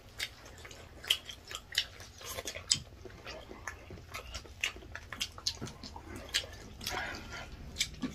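Close eating sounds of people eating rice and a chicken drumstick with their hands: wet chewing and lip smacks, with many short, irregular clicks.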